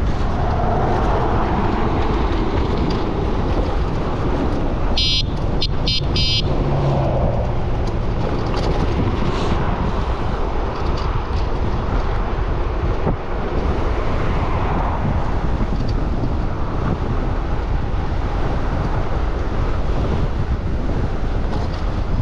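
Wind buffeting the microphone on a moving e-bike, with road traffic around. About five seconds in comes a quick run of four short, high-pitched tones.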